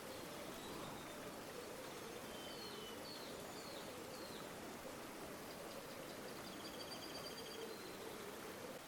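River water flowing in a steady, quiet rush, with a few faint bird chirps and a short faint trill over it.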